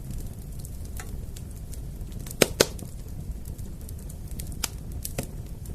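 Fire crackling: scattered sharp pops and snaps over a steady low rumble of burning, with two loud pops in quick succession about halfway through.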